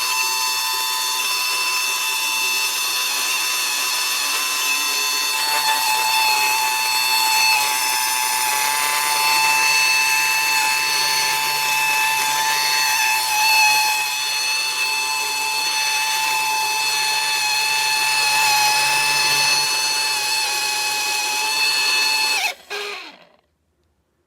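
Tiazhan handheld vacuum's small high-speed motor running with a steady high-pitched whine, then switched off about 22 seconds in, its pitch falling quickly as it winds down.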